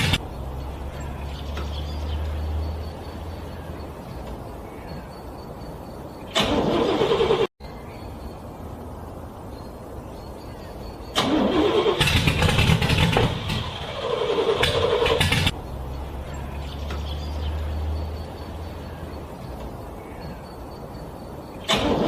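Car engine being cranked over by its starter in extreme cold, struggling to catch. It comes in several loud bursts, the longest about four seconds, over a lower steady engine-like drone.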